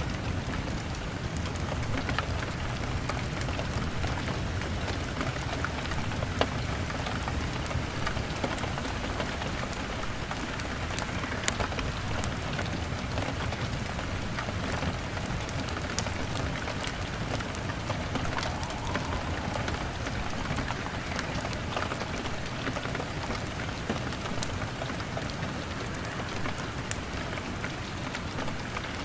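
Heavy rain beating steadily on a window pane, a dense even patter with a low rumble beneath, scattered all through with brief sharp crackles and pops from a log fire.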